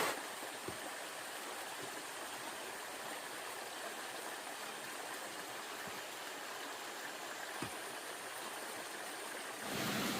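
Steady rush of running water, with a couple of faint knocks.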